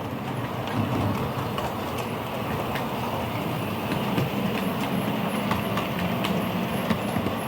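Model railway train running along the track: a steady rumble of wheels and motor with light, irregular clicks.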